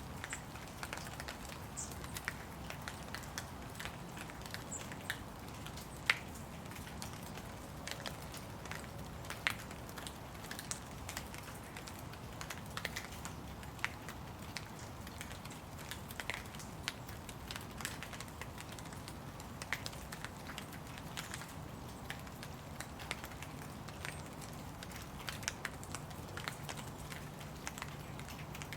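Light rain with irregular drops pattering and dripping close by, over a steady soft hiss and a faint low hum.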